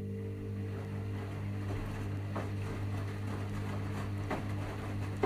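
Washing machine running mid-cycle with a steady electric hum, a low note with several overtones that holds evenly, and faint ticks and knocks from the machine over it.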